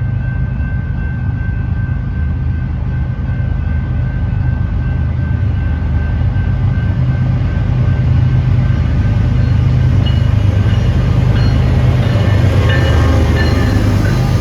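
Diesel-hauled freight train rolling past: a heavy low rumble of the locomotives and cars, growing louder toward the end, with a thin steady whine over it for the first half and rattling wheel noise in the second half.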